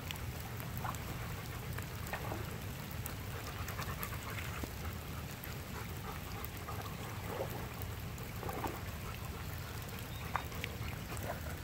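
Light rain pattering on shallow river water, with scattered small splashes from a dog wading, over a low steady wind rumble on the microphone.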